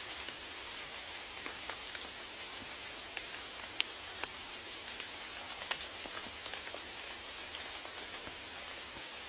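Steady rain hissing, with individual raindrops ticking sharply and irregularly through it; one drop, just before four seconds in, is the loudest.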